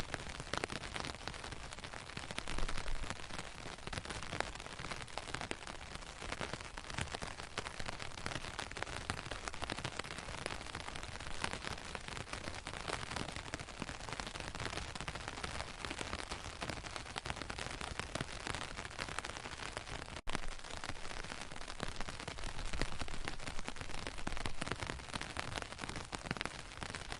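Steady rain falling, a dense crackling patter of drops, with one momentary break about twenty seconds in.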